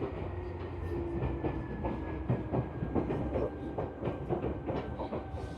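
Seibu New 2000 series electric train running slowly into its terminus, heard from inside the car: a low rumble with wheels clicking over rail joints and points, and a faint high whine falling slowly in pitch as it slows.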